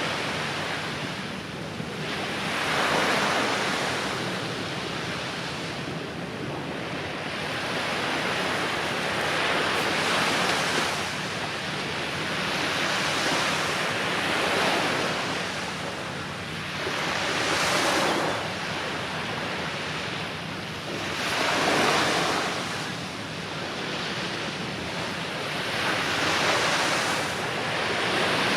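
Sea surf breaking on the shore, the noise swelling and falling back every three to four seconds, with some wind buffeting the microphone.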